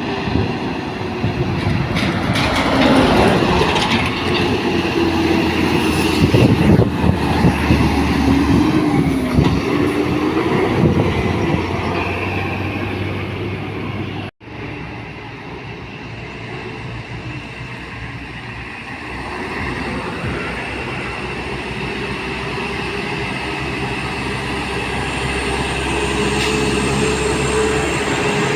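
Diesel engine of a heavily loaded truck labouring at low speed up a steep climb, its pitch wavering. It cuts out briefly about halfway through, then the engine drone comes back and slowly rises in pitch.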